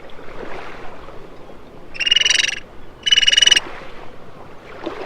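Frog calling: two loud, rapidly pulsed trills about half a second each and a second apart, over a faint steady background hiss.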